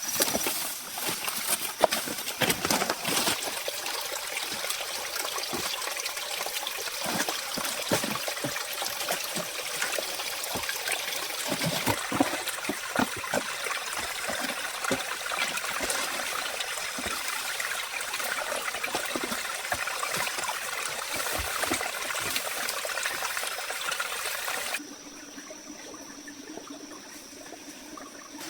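Water running steadily, a dense splashing hiss with many small ticks. It gives way abruptly near the end to a much quieter background with a faint steady tone.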